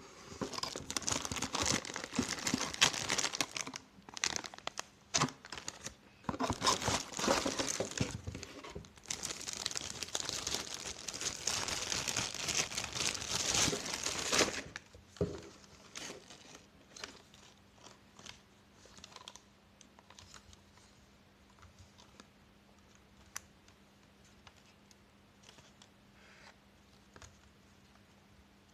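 Crinkling and crumpling of some crinkly material being handled, in irregular bursts for about the first fourteen seconds, then only a few faint clicks.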